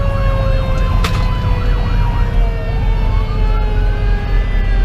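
Fire engine responding with sirens: a Federal Q2B mechanical siren winding slowly down in pitch, while a Code 3 V-Con electronic siren yelps rapidly, then switches about two and a half seconds in to a slow wail that rises and falls. Under the sirens is a steady low rumble from the engine's Detroit Series 60 diesel and the road.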